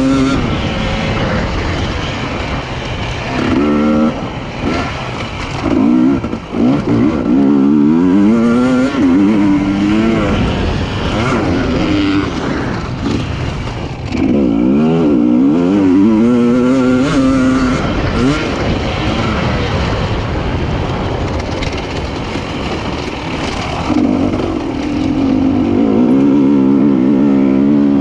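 Single-cylinder two-stroke engine of a Husqvarna TE300i dirt bike, heard onboard while riding, revving in repeated surges as the throttle opens and shuts, its pitch climbing on each pull with rougher stretches off the throttle in between.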